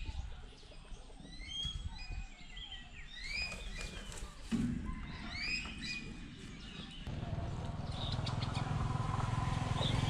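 Small birds chirping: short, quick upward-sweeping chirps, repeated at varying pitches. From about seven seconds in, a steady low rumble rises beneath them and becomes the loudest sound.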